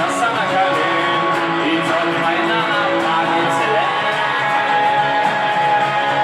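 Guitar music: an instrumental passage of a song, with held melody notes over a steady accompaniment.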